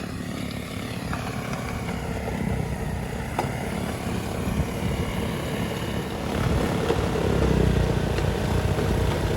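John Deere 2038R compact tractor's diesel engine running under load with its front snowblower working through deep snow, a steady rumble that grows louder about two-thirds of the way in.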